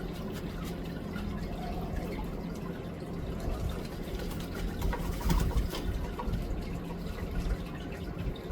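Steady trickle of water, with a few faint, short bird calls over it.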